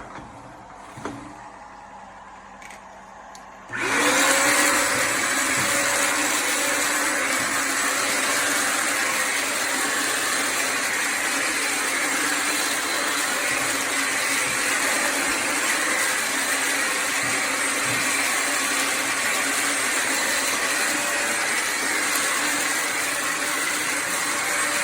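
Bissell Symphony Pet vacuum-and-steam-mop's vacuum motor switching on about four seconds in. Its whine rises quickly and then runs steadily and loudly.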